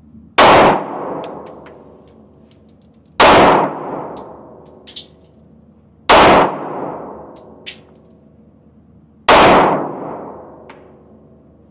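Four handgun shots, slow and evenly paced about three seconds apart, each loud crack trailing off in an echo, with light clinks between the shots.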